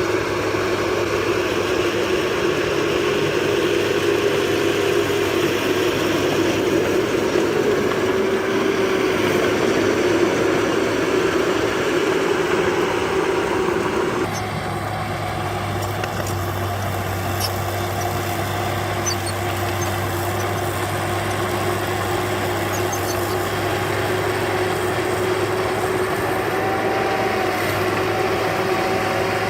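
Diesel engine of heavy earthmoving machinery running steadily, its tone and loudness changing abruptly about halfway through.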